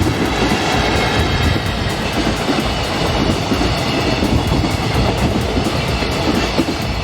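Freight train passing at speed: a steady rumble and clatter of wagons on the rails, with strong wind buffeting the microphone.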